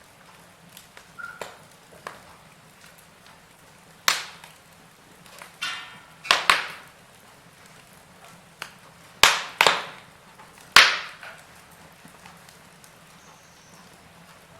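Burning wood crackling, with about six sharp loud pops between about four and eleven seconds in and fainter snaps between them.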